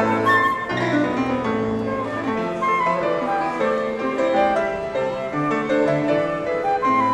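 Live chamber ensemble of two flutes, clarinet and piano playing a lively pop arrangement, the flutes and clarinet carrying the melody over piano chords.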